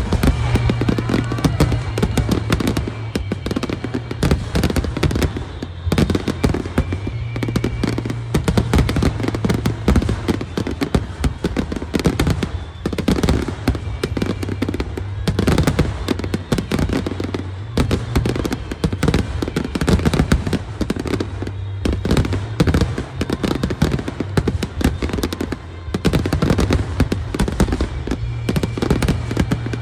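Fireworks finale: aerial shells bursting in a dense, unbroken barrage of bangs and crackles, several a second.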